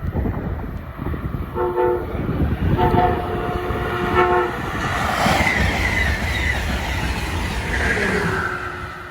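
A passing train sounding a multi-note air horn in a short blast and then a longer one, over heavy wheel-on-rail rumble. It then rushes past at speed, with a falling whine as it goes by, and starts to fade near the end.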